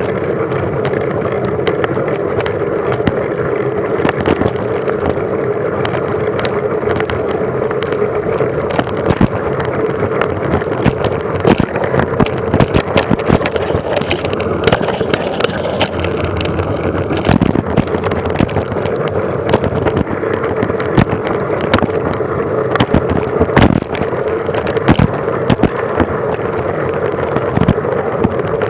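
Mountain bike ridden fast over a rough forest trail: steady rushing tyre and wind noise with a constant hum, and frequent sharp knocks and rattles from the bike over bumps, thicker after the first few seconds.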